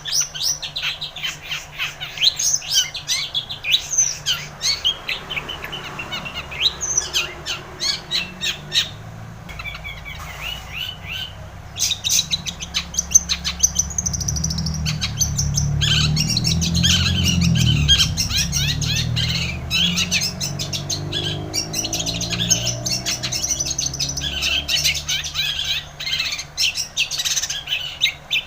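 Long-tailed shrike singing a fast, varied chattering song of quick high chirps and trills, almost without pause. A low rumble swells under it in the middle.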